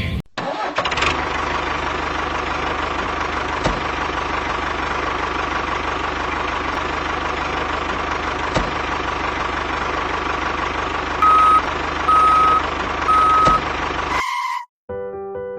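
A vehicle engine running steadily, with a held whine over the noise. Near the end come three short, evenly spaced electronic beeps like a reversing alarm.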